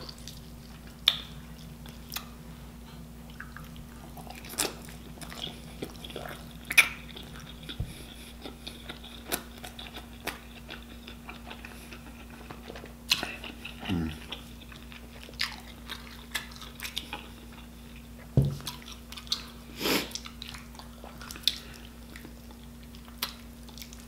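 Close-up mukbang eating sounds: chewing a mouthful of sauce-covered rotisserie chicken, with scattered wet smacks and clicks. A faint steady hum sits underneath.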